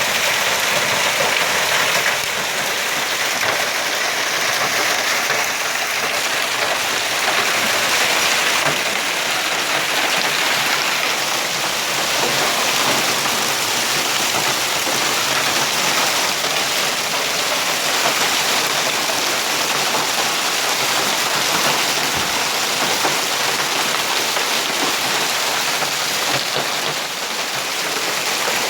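Heavy hail falling: a dense, steady clatter of countless hailstones striking hard surfaces.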